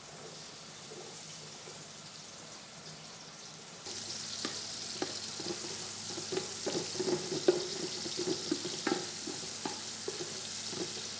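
Food frying in oil in a pan. The sizzle jumps up suddenly about four seconds in, as if food has just gone into the hot oil, and short clicks and scrapes of a utensil stirring it follow.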